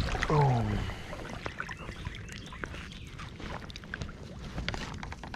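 Light water splashing and scattered small clicks from a hooked largemouth bass being brought in on a fly rod.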